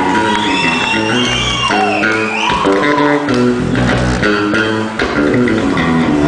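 Live electric bass guitar solo: a run of plucked bass notes played loud through an amplifier.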